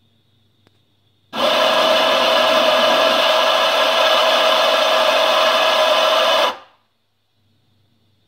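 Anfim Super Caimano espresso grinder with titanium burrs grinding coffee for about five seconds. It starts and stops abruptly, switched by an automatic grind timer, with a steady motor tone under the grinding noise.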